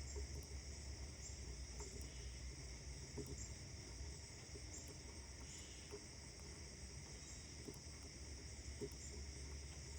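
Faint outdoor morning ambience: a steady high hiss with short high chirps repeating about once a second, over a low distant rumble that fades in the first second.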